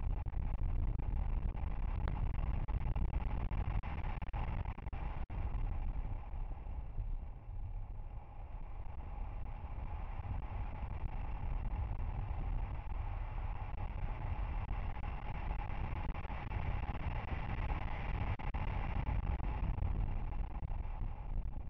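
Mitsubishi Lancer Evolution X's turbocharged four-cylinder engine running hard at speed, with heavy road and wind rumble on an exterior-mounted camera's microphone. The level drops briefly about eight seconds in.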